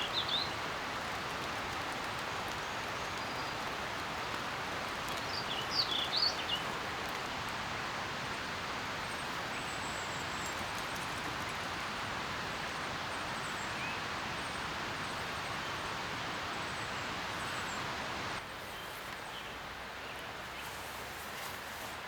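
Steady rain falling, with a bird chirping briefly at the start and again about six seconds in. The rain drops to a softer level about eighteen seconds in.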